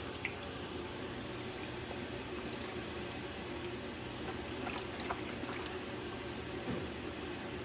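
Microfiber towels being pushed down to soak in a bucket of rinseless car-wash solution: soft sloshing of water with a few small clicks, over a steady low hum.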